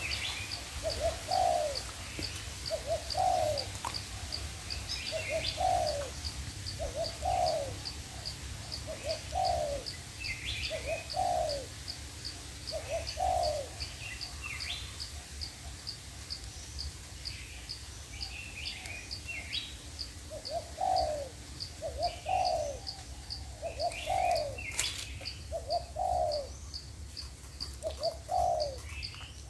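Spotted doves cooing, a series of short coo phrases every second or two with a pause of several seconds in the middle. Small birds chirp now and then, and a high, even ticking from an insect runs at about three ticks a second.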